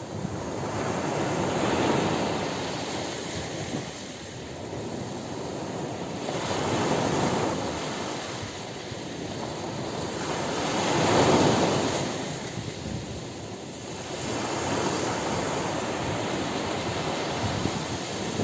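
Ocean surf on a beach: waves breaking and washing up in slow surges about every four to five seconds, each swelling to a rushing hiss and ebbing away.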